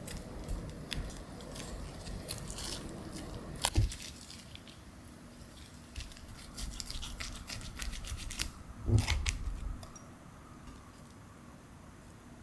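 Kitchen handling sounds of food preparation: crinkling and tearing, with two louder knocks about four and nine seconds in.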